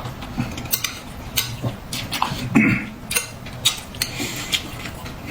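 Cutlery and dishes clinking and tapping irregularly during a meal, a dozen or so short clinks.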